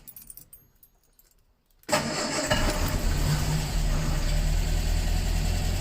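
The Ford Anglia 105E's four-cylinder petrol engine starts abruptly about two seconds in, after a near-silent stretch, and then runs steadily at idle.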